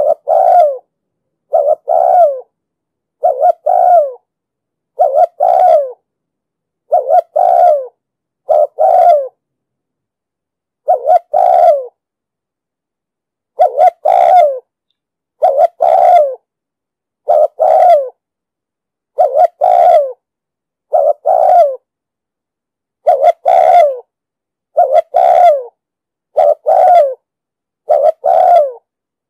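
Spotted dove cooing: short, loud coo phrases, each falling slightly in pitch, repeated about every one and a half to two seconds, with a few longer pauses.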